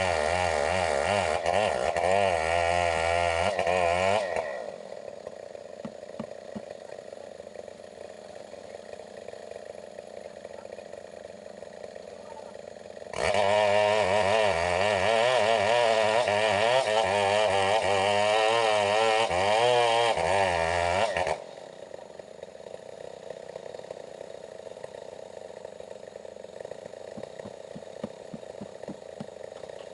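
Stihl 070 two-stroke chainsaw running at high revs under load, its pitch wavering as it cuts into a log. It stops abruptly about 4 s in and is much quieter until about 13 s, then runs loud again until about 21 s, when it cuts off abruptly once more.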